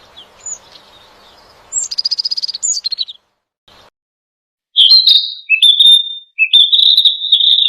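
A songbird calling: a quick run of high chirps, a short silence, then louder high chirps and drawn-out high notes.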